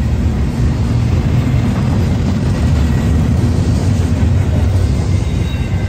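Union Pacific double-stack intermodal container train passing at speed, its well cars' wheels on the rails making a loud, steady, deep rumble.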